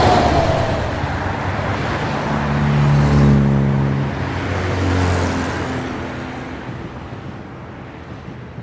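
A siren's falling wail dies away under a second in, then a vehicle passes with a low engine drone, loudest about three seconds in, over steady traffic noise that fades toward the end.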